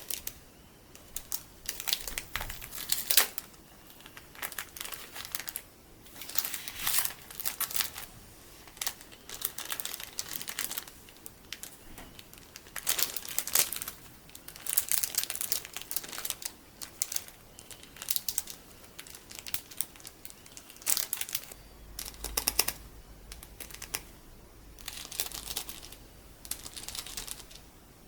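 Colourful sticky beads in a plastic bag crinkled and squeezed by hand. The crackly rustling comes in bursts of a second or two with short pauses between them.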